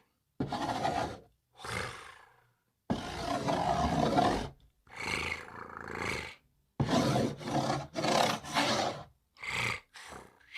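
A man's voice making rasping rolled-R and hissing sounds in about ten short bursts, imitating the scrape of a spoon being written across a cardboard box.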